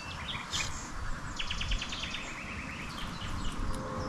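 Small birds chirping, with one fast trill of about eight quick high notes near the middle, over a low background rumble.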